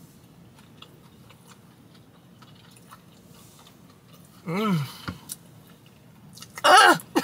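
Person chewing a fried mozzarella stick with stretchy melted cheese, making faint wet mouth clicks. Two short hummed vocal sounds break in, about four and a half seconds and about seven seconds in, the second one louder.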